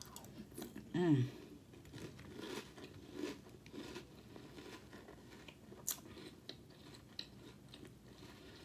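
A person chewing a mouthful of sprinkled corn-puff cereal in milk, with faint crunching and wet mouth clicks. There is a brief voiced hum about a second in.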